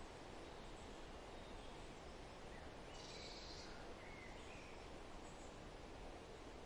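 Faint forest ambience: a steady background hiss with a few brief, faint bird chirps scattered through it, and a short higher-pitched burst about three seconds in.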